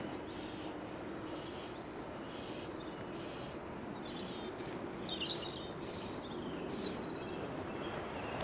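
Eurasian blackbird singing short phrases that end in quick high twitters, over the steady rush of a river in flood.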